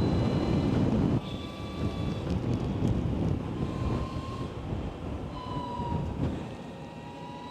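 Wind rushing over the microphone while riding an Energica Experia electric motorcycle, with the electric motor's thin whine sliding down then up in pitch as the speed changes. The wind noise drops sharply about a second in.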